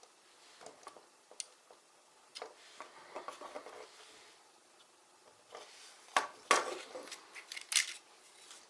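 Small plastic building bricks clicking and clattering as they are handled and pressed together, in irregular bursts with the loudest cluster of clicks a little past halfway.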